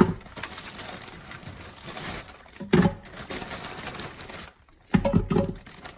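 Frozen chicken pieces knocking into a pressure cooker's inner pot three times, with a plastic bag rustling faintly in between.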